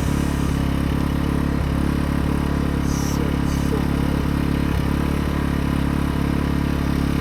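Small gas-powered portable inverter generator engine running at a steady speed, a constant even hum.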